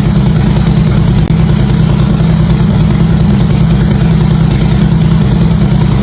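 Harley-Davidson V-twin engine idling steadily through its exhaust: an even, deep pulsing with no revving.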